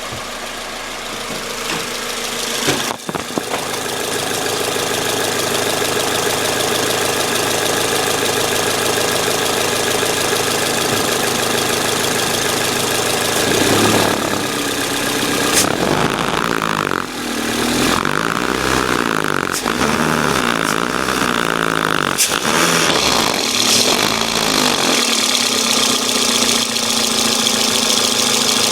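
2006 Toyota Corolla's 16-valve four-cylinder engine running, revved with the throttle, its pitch rising and falling several times partway through. It has a ticking noise the owner can't place: he wonders whether it is the intake manifold, the exhaust or the belt.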